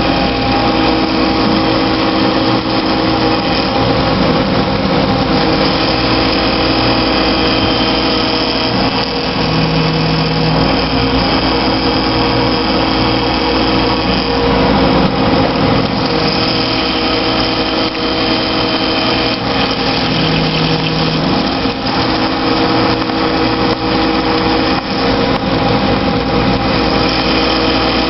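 CNC milling machine running and cutting, a loud steady machine noise with several held tones that shift and change every few seconds.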